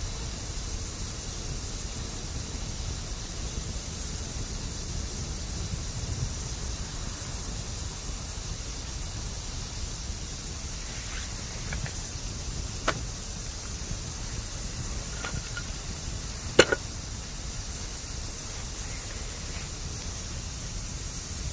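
Bamboo campfire burning with a steady hiss, broken by a few sharp crackles and one loud pop about two thirds of the way through.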